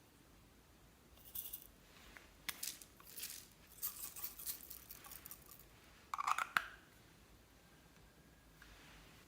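Slime being mixed and squished by hand, giving a series of short sticky crackles, with the loudest burst about six seconds in.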